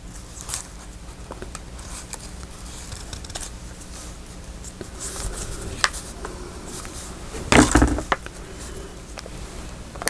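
Paper and craft materials being handled on a tabletop: small clicks, light scrapes and rustling, with one louder rustle about three-quarters of the way through.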